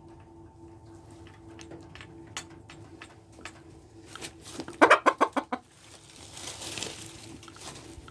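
Polish chickens clucking, with a quick run of about half a dozen loud clucks a little under five seconds in, then a brief rustle.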